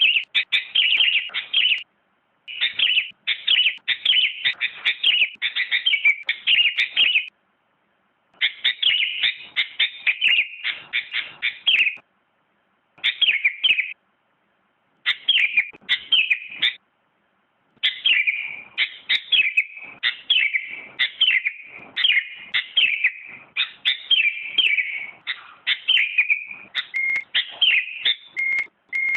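Sooty-headed bulbul (kutilang) singing: runs of quick, chirping whistled notes, each run a few seconds long, broken by short silent pauses.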